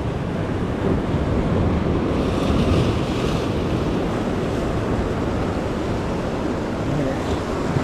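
Ocean surf washing against the jetty, with wind buffeting the microphone. The surf swells to a louder, hissing surge about two and a half seconds in.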